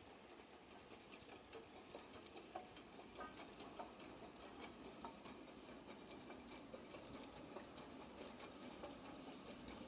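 Near silence: faint background hiss with scattered light clicks and ticks, slowly growing louder toward the end.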